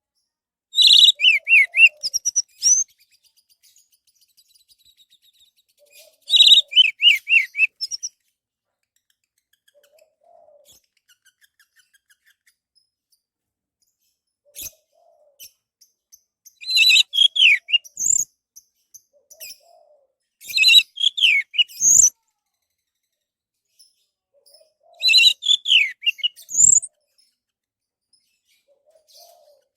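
Orange-headed thrush singing: five loud phrases of rapid, varied whistled notes, each about two seconds long, separated by pauses of a few seconds.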